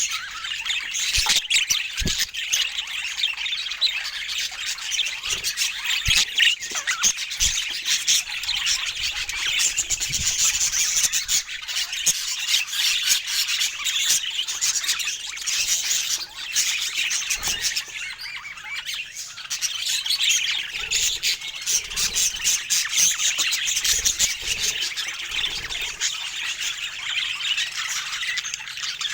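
Budgerigar chatter: continuous warbling, chirping and squawking with no pauses, broken by occasional brief clicks.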